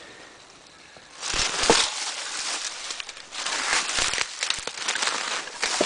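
Footsteps crunching and rustling through dry leaves and shattered wood debris. The crackling starts about a second in and goes on irregularly.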